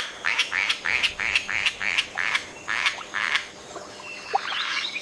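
A frog calling, a steady run of short, rapid croaks at about three to four a second, which fades out about three-quarters of the way through.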